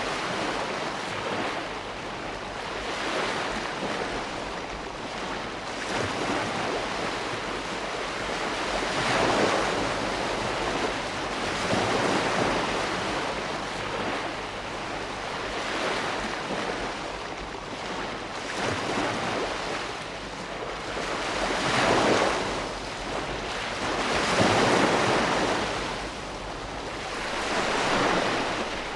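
Ocean waves breaking and washing on a shore, a steady surf that swells and ebbs every few seconds, with some wind noise.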